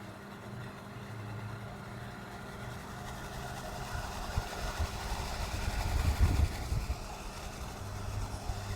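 BougeRV compact portable air conditioner running, a steady low hum with its fan's rushing air. Between about four and seven seconds the rushing grows louder, with gusty low rumbles at its peak around six seconds.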